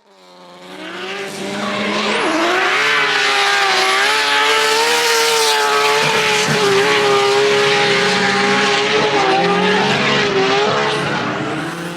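Drift car engine held at high revs, its pitch wavering slightly, with tyres squealing through a long slide. It fades in over the first two seconds and fades out near the end.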